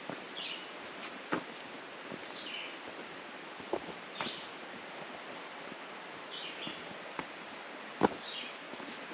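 Wild birds chirping over a steady background rush. There are short high falling chirps every second or two and lower falling calls between them, with a few sharp clicks; the loudest click comes about eight seconds in.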